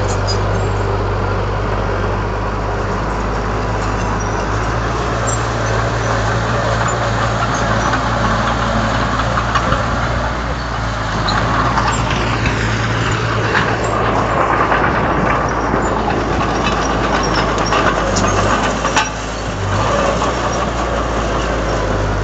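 Komatsu D31 bulldozer's diesel engine running steadily under work, with scattered metallic clanks, a louder stretch in the middle and a sharp knock near the end.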